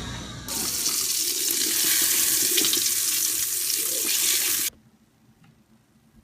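Running water, a steady rushing hiss like a tap running, that starts abruptly about half a second in and cuts off suddenly near the end.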